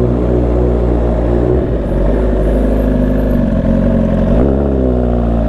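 Motorcycle engine running under way, a steady engine note that changes pitch about a second and a half in and rises again near the end as the throttle opens.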